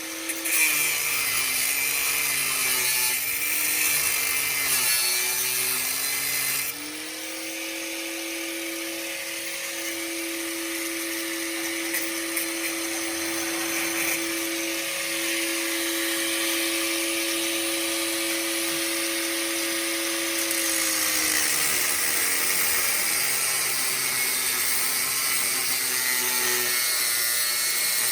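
Angle grinder cutting through a steel exhaust pipe near a weld. Its motor whine wavers under load for the first several seconds, then holds steady, over a harsh grinding hiss that drops about seven seconds in.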